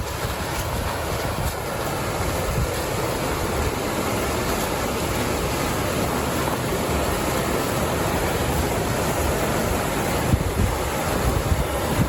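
Wind buffeting the microphone with a steady rush of wind and choppy water on a lake.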